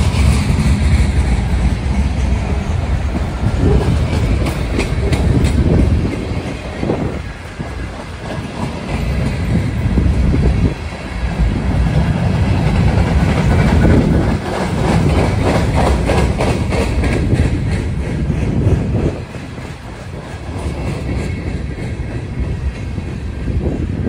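Cars of a Norfolk Southern mixed freight train rolling past close by: a loud rumble with the clickety-clack of steel wheels over rail joints, rising and falling as car after car goes by.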